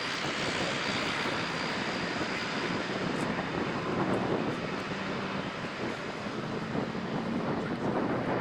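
Aircraft engines running as a plane passes: a steady rush of noise, with a faint high whine that fades over the first few seconds.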